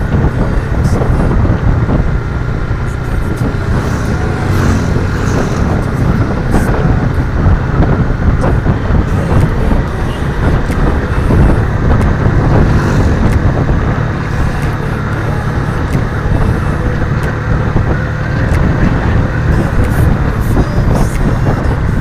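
Suzuki Raider 150 FI motorcycle's single-cylinder engine running steadily at cruising speed, with wind rushing over the on-board microphone.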